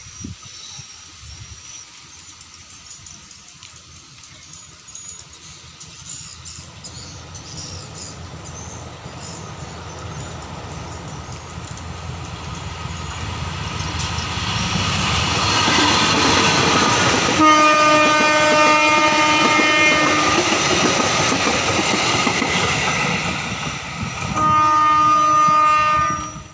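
Diesel-hauled passenger train approaching: the locomotive's engine and the rolling wheels grow steadily louder over several seconds. Past the midpoint the locomotive sounds a long, several-note horn blast while passing close. Near the end another horn blast follows a sudden jump in level.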